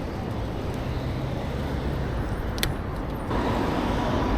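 City road traffic heard from a moving bicycle: a steady low rumble, one sharp click about halfway through, and a steady whine that starts a little after three seconds in as the noise grows louder.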